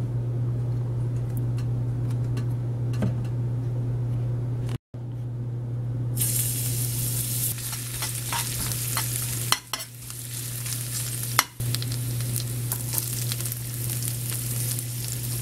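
Chopped garlic and red bell pepper frying in olive oil in a stainless steel pan, a bright sizzle that starts about six seconds in, with a metal slotted spoon stirring and clicking against the pan. A steady low hum runs underneath.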